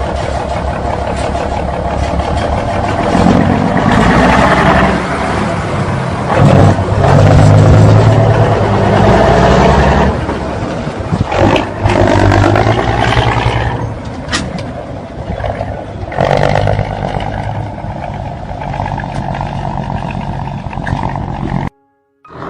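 Scania 113 truck's straight-six diesel engine running, swelling louder for a few seconds in the middle before settling back. It cuts off suddenly near the end.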